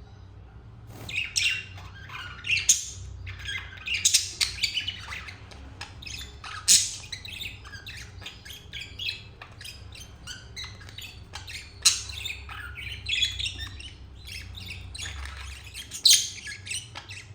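Pet budgerigars chattering and warbling: a rapid, continuous stream of chirps, squawks and clicks, with sharp loud squawks every few seconds, the contented chatter of happy budgies.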